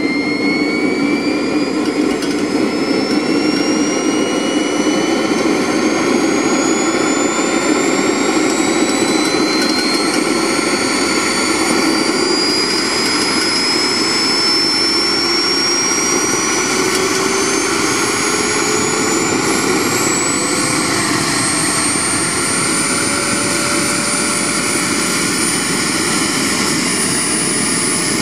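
Radio-controlled model jet's engine spooling up: a loud rushing noise under a high whine that climbs slowly and steadily in pitch.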